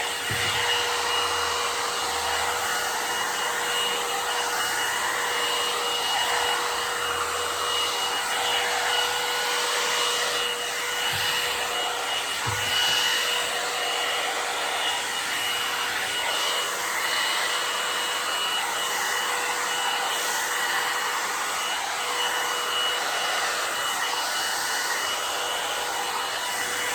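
Handheld hair dryer running steadily, a constant whine over the rush of air, used to style a wig.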